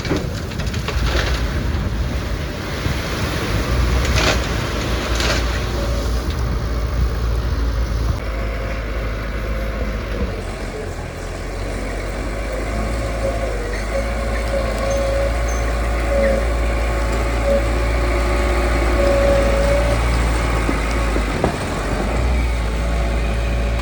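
Heavy diesel construction machinery running steadily, with a low engine rumble and a few sharp knocks in the first five seconds. A steady whine joins in from about halfway through.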